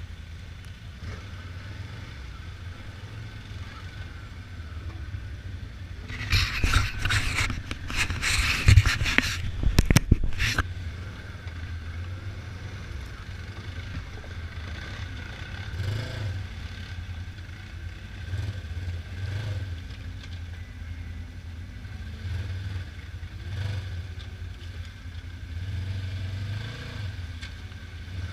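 Polaris RZR 900 side-by-side's engine running with a steady low drone that swells a little now and then. From about six to ten seconds in, a loud rush of water splashing and spraying covers it.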